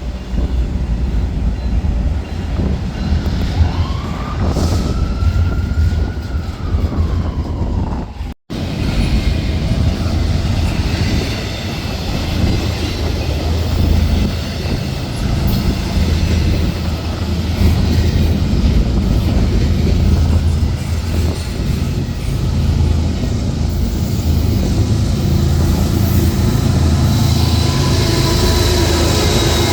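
Train rolling past with a loud, steady rumble of wheels on rail. A few seconds in, a single whine rises and then falls away. The sound drops out for an instant about eight seconds in.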